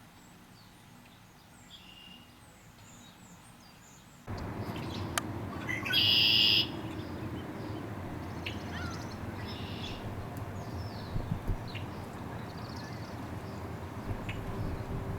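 Backyard songbirds chirping and calling, with one loud, harsh call lasting about half a second about six seconds in. The background noise rises abruptly about four seconds in.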